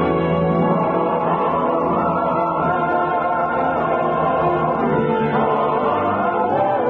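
Choir singing with orchestral accompaniment: the radio show's opening theme music.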